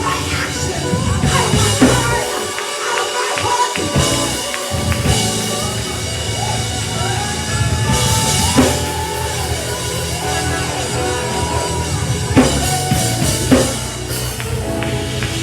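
Loud live gospel worship music from a band with a drum kit, with sharp drum hits now and then.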